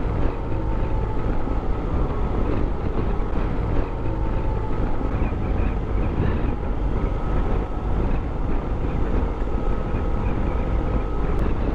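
Motorcycle engine running steadily at cruising speed, mixed with a low rush of riding wind on the microphone.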